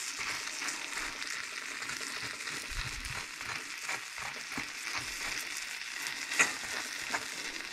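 Mayonnaise-coated bread frying in a stainless steel pan: a steady sizzle full of fine crackles, with the scrape of a butter knife spreading mayonnaise over the bread. One louder click comes near the end.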